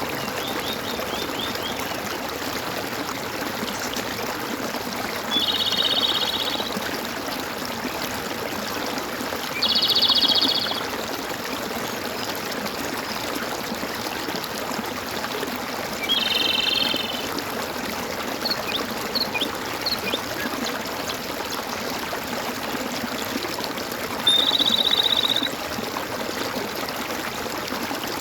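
Steady gurgling stream, with a small bird singing a short, rapid high trill about a second long four times, and a few faint high chirps in between.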